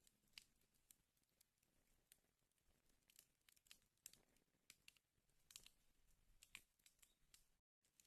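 Wood fire in a fireplace crackling faintly: irregular sharp snaps and pops over a soft hiss. The sound cuts out for a moment near the end.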